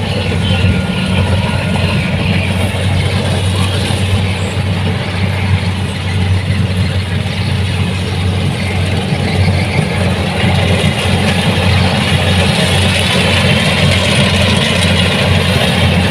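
Kubota DC-70 Plus rice combine harvester running steadily: a low diesel engine drone under a broad mechanical rush. The rush grows a little louder about two-thirds of the way through.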